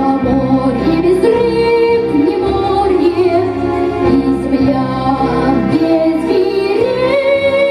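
A girl singing a slow, drawn-out melody with long held notes over an instrumental backing track.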